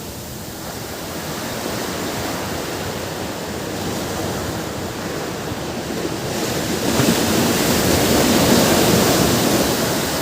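Ocean surf washing on a beach: a steady rush of water that swells into a louder breaking wave about seven seconds in and eases off near the end.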